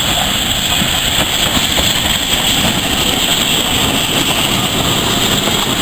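Steam-hauled heritage train running, a loud steady noise of the train on the move with no distinct beats or whistles.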